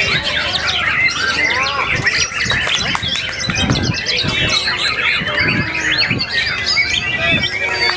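Several white-rumped shamas (murai batu) singing at once in a dense, overlapping chorus of whistles and trills.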